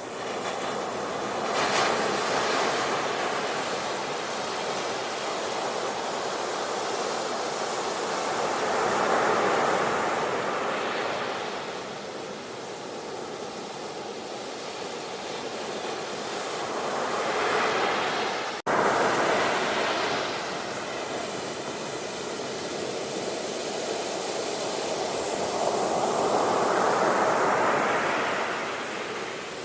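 Sea waves breaking and washing ashore in slow surges about every eight seconds. The sound cuts out for an instant about two-thirds of the way through.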